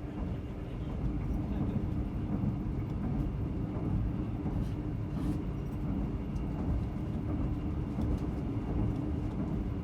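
Running noise of a passenger train heard from inside a carriage: a steady low rumble of wheels on the track, with a few faint clicks about halfway through.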